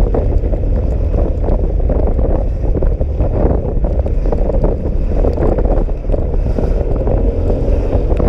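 Steady, loud wind noise buffeting the microphone of a scooter being ridden in heavy rain, with the scooter's running and road noise beneath.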